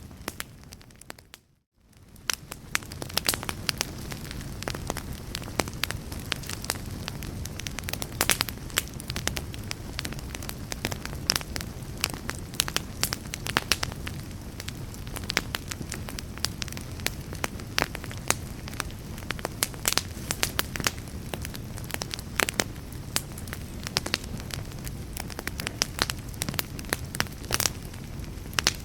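Fire crackling in a fireplace: frequent sharp pops and snaps over a steady low rumble of flame. About one and a half seconds in, the sound briefly dips to silence and fades back in.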